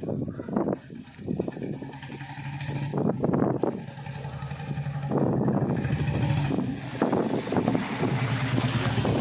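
Royal Enfield Bullet 350 single-cylinder engine running through an aftermarket exhaust, idling with repeated quick throttle blips that make the exhaust note jump louder.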